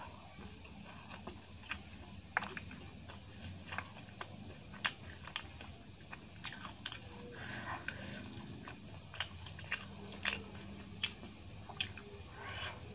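Close-miked eating: wet chewing with sharp mouth clicks and smacks, scattered irregularly, as rice and curry are eaten by hand; near the end, a bite into a fried mirchi pakoda.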